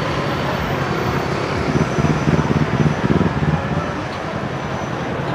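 Street traffic noise, with a vehicle engine rumbling louder for about a second in the middle.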